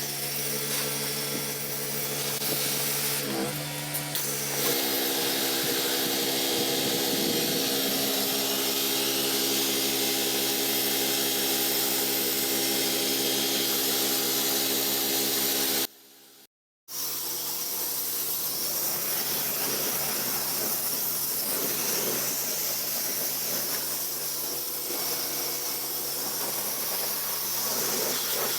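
Small gas engine of a pressure-washing rig running steadily, with the hiss of spraying water and cleaning chemical over it. The sound cuts out for about a second partway through, and afterwards the hiss is stronger than the engine.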